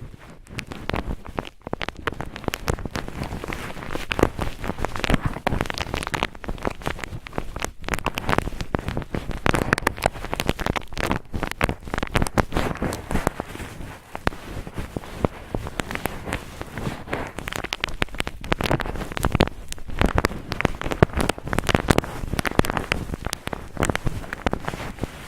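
Cotton ball rubbed and squeezed roughly on the microphone: a dense, continuous crackling rustle of many fine scratchy clicks.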